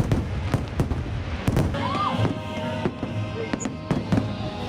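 Fireworks show: music playing over loudspeakers, with frequent sharp firework bangs and pops throughout.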